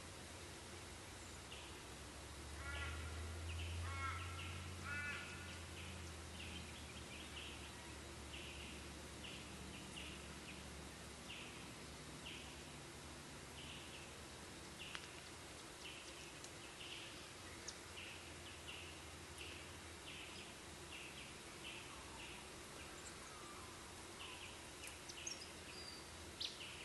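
Faint outdoor bird calls. Short high chirps repeat every second or so throughout, with a burst of lower, repeated notes a few seconds in and a falling whistle near the end. A low rumble comes and goes in the first several seconds.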